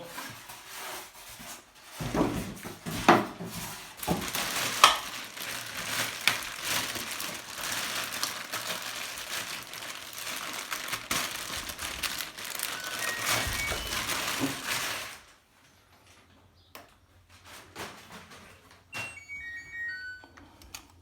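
Packaging being handled during an unboxing: continuous rustling with clicks and knocks, which stops abruptly about fifteen seconds in. A few short high beeps follow near the end.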